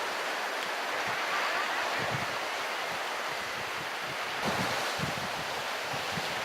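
Sea surf washing steadily, with wind gusting against the microphone in soft low thumps.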